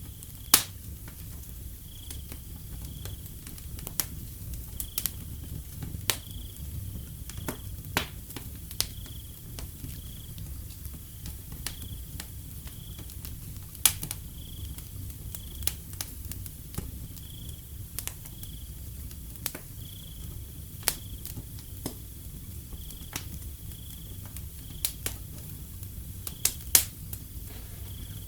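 Wood fire crackling, with sharp irregular pops over a low steady rumble, while crickets give short high chirps at one pitch.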